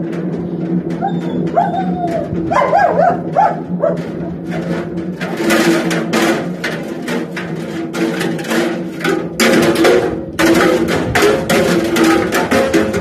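BEKO washing machine running with hard objects thrown in its drum: a steady motor hum under rapid, heavy banging and knocking as the load is flung around, heavier from about halfway through.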